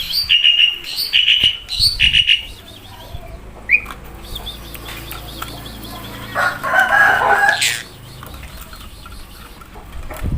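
A pet Asian pied starling (jalak suren) calling: a quick run of short, sweeping chirps at first, then a louder burst of harsher calls about six and a half seconds in.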